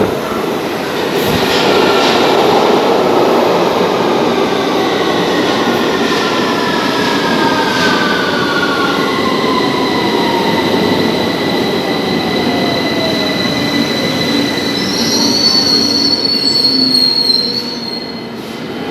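Victoria line tube train braking into the platform: the motor whine falls steadily in pitch as it slows, a high brake and wheel squeal builds near the end, and the noise drops as the train comes to a stop.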